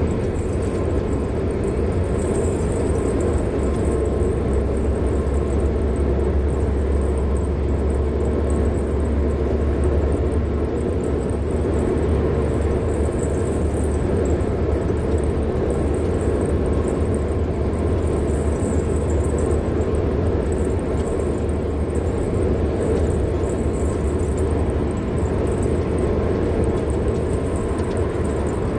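Steady rumble of a car driving along a road, engine and tyre noise holding even throughout.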